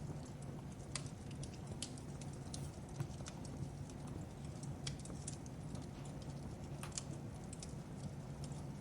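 Fireplace crackling: irregular sharp pops and snaps, a few a second, over a steady low rumble of the burning fire.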